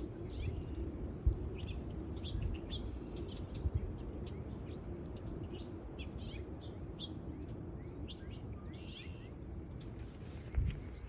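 Small songbirds chirping with many short, high calls over a steady low background noise. A couple of soft thumps come about one and four seconds in.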